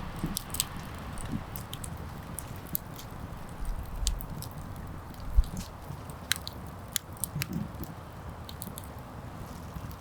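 Irregular snaps, crackles and crunching of wood, scattered sharp clicks with a few soft low thumps, one stronger thump about halfway through.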